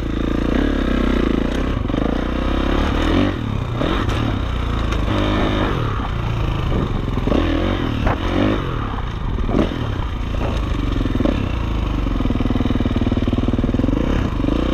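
Dirt bike engine running and revving up and down as it is ridden off-road, with a few short knocks.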